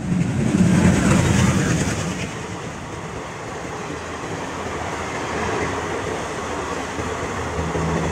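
Passenger train coaches rolling past on the track: a steady rumble and rattle of wheels on rail, loudest in the first couple of seconds. A low, steady pitched tone joins near the end.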